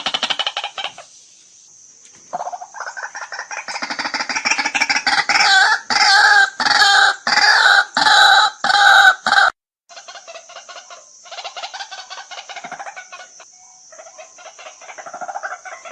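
White-breasted waterhen calling: a run of harsh repeated notes builds into loud, evenly spaced calls about twice a second. The calls break off abruptly about two-thirds of the way through, then pick up again as softer, quicker calling. A steady high hiss runs underneath.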